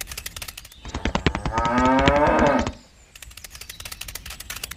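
A cow mooing once, one drawn-out call of about two seconds, over a quick, steady run of light clicks.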